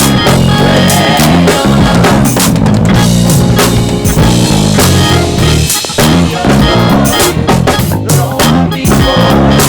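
Live gospel band playing an instrumental groove: drum kit with snare rimshots and bass drum over bass guitar and sustained chords, with a short break about six seconds in before the groove resumes.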